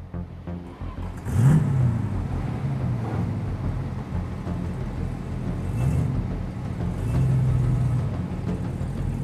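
A classic Fiat 500's small air-cooled two-cylinder engine runs as the car drives slowly. Its revs rise and fall briefly about a second and a half in and again around six seconds.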